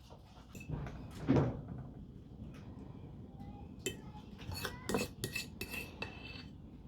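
Metal utensil clinking and scraping against a bowl while mixing egg salad: a dull knock about a second and a half in, then a run of ringing clinks in the second half.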